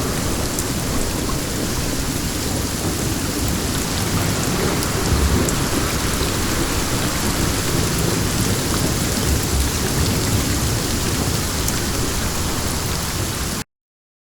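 Steady heavy rain with wind and a low rumble of thunder underneath; the sound cuts off suddenly near the end.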